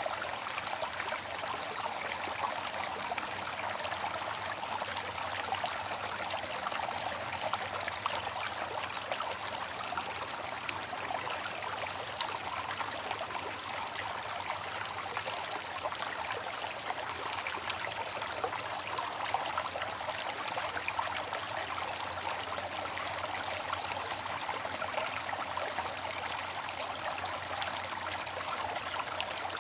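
Water fountain splashing and trickling in a steady, unbroken flow.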